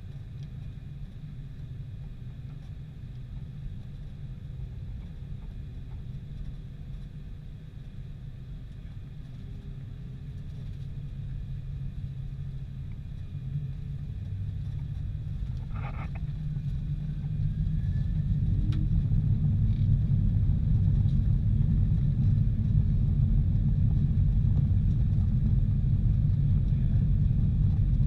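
Boeing 747-400 jet engines running as a deep, steady rumble that builds over several seconds about halfway through, then holds louder: the engines spooling up toward takeoff thrust. A brief high tone sounds about two-thirds of the way in.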